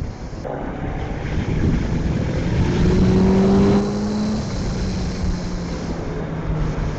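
Honda CBR 650F's 650 cc inline-four engine running under light throttle on the move. Its pitch climbs slowly for a couple of seconds, then falls and the sound drops about four seconds in, before it runs on steadily.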